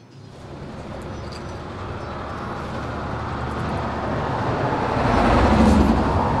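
Subway train approaching, its rumble growing steadily louder to a peak about five seconds in.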